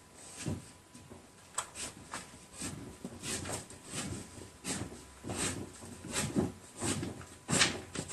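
Drawing tool scratching short, quick strokes on paper, about one or two a second at an uneven pace, as a woven pattern is sketched in rhythm.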